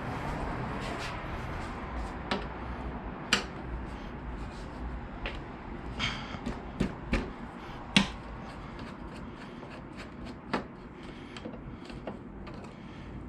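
Scattered clicks and light knocks of plastic motorcycle fairing panels and hand tools being handled during fairing removal, irregular and a few seconds apart, the sharpest about three seconds in and about eight seconds in.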